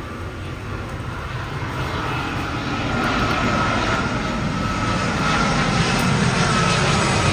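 Jet airliner's engines running, a low rumble with a whine over it, growing steadily louder as the aircraft approaches.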